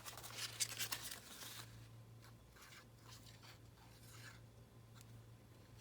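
Paper being handled on a journal page: a quick run of soft rustling and scraping strokes in the first second and a half, then occasional faint rustles, over a low steady hum.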